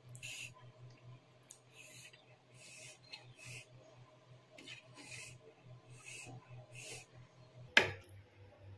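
Close-miked wet chewing and lip-smacking while eating chicken and rice by hand, as a run of short, soft, smacking bursts. Near the end a single sharp clink as a glass bowl is set down on the plate.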